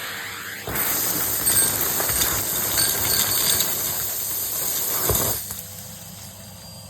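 Henry canister vacuum cleaner running. About a second in, a loud rush of air through the hose and nozzle starts and lasts about four and a half seconds, then drops back to a quieter, steady running hum.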